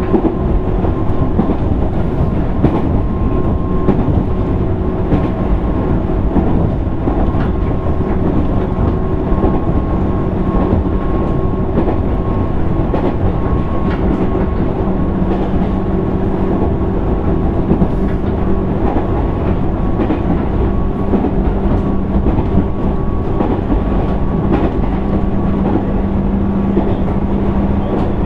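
Running noise inside a JR East 205 series 600 subseries electric train's motor car, cruising at a steady speed: a low rumble with a steady motor and gear whine held at one pitch, and faint rail-joint clicks.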